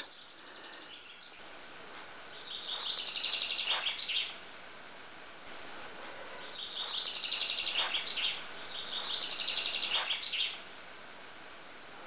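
A songbird singing a rapid, high trill three times, each phrase lasting a second and a half to two seconds, with a fainter trill near the start, over quiet forest background.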